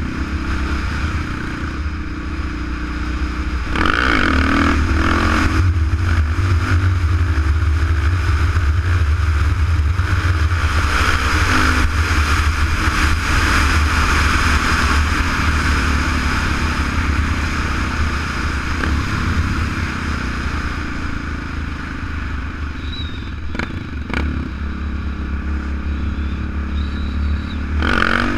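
Kawasaki KLR 650 single-cylinder four-stroke motorcycle engine running while riding on pavement, over a steady low wind rumble. About four seconds in, the engine revs up with a rising pitch and grows louder, then holds steady; it revs up again near the end.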